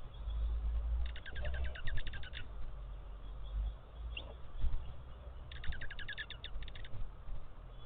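A small songbird giving a rapid trill of quickly repeated notes, twice, each lasting a little over a second, over a steady low rumble with a soft thump between the trills.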